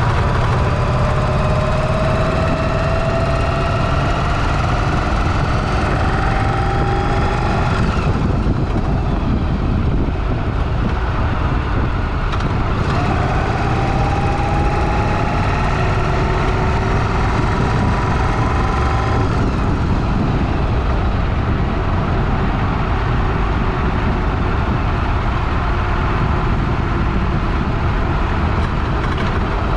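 Motorcycle engine heard from the rider's helmet camera, pulling up in pitch twice as the bike accelerates, then settling to a steady cruise, under heavy wind and road noise.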